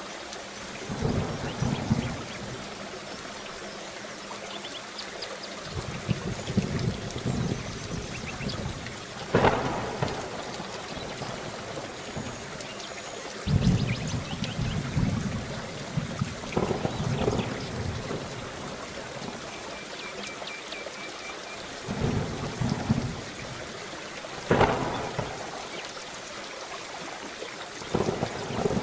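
Steady heavy rain with thunder rolling in repeatedly: several low rumbles, and two sharp, loud cracks about nine seconds in and again near 25 seconds.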